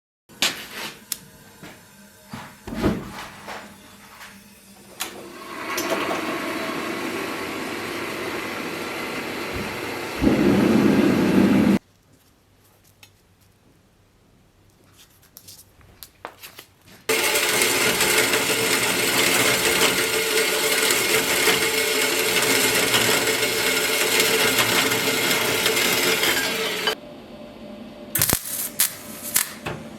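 Workshop tool sounds in separate cut segments: scattered clicks and knocks, then stretches of steady machine noise, the loudest lasting about ten seconds from the middle on, with a few more sharp knocks near the end.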